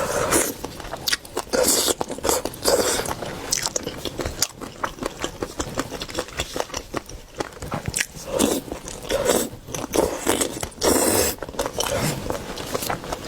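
Close-miked eating of seafood: repeated bites, crunches and chewing, with many short sharp clicks and scrapes.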